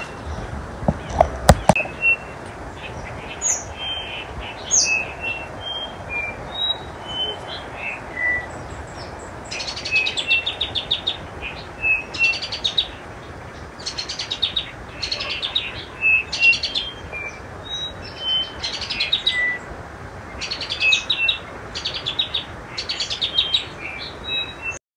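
Wild birds chirping and calling over a steady background hiss, with bursts of rapid trills repeating through the second half. A few sharp knocks about a second in are the loudest sounds.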